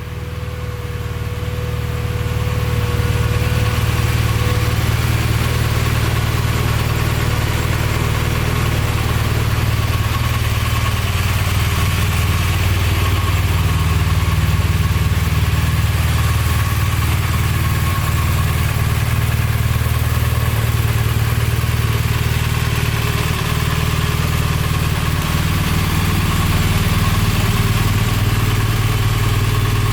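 BMW R1200RT's boxer-twin engine idling steadily, settling in over the first couple of seconds.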